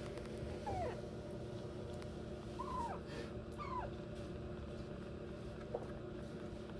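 Young kitten mewing: four short high calls, each falling in pitch, the last one faint, over a steady low hum.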